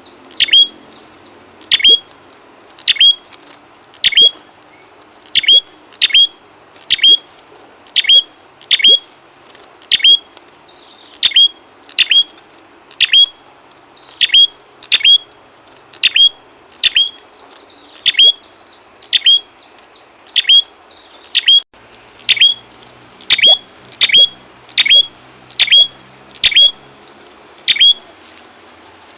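Prenjak kepala merah (red-headed prenjak) lure call: a long, steady series of short, sharp, downward-sweeping chirps, about one to two a second.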